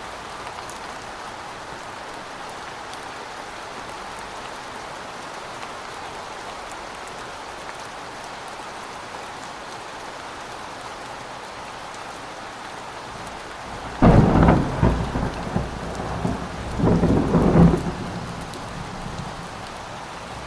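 Steady rain falling, with a sudden loud crack of thunder about fourteen seconds in that rumbles on, swells again to a second peak some three seconds later, and dies back into the rain.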